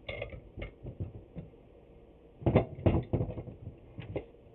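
Clamps and glued wooden boards being handled and set in place: a series of knocks and clatters. A few light ones come first, then a loud cluster about two and a half seconds in and two more near the end.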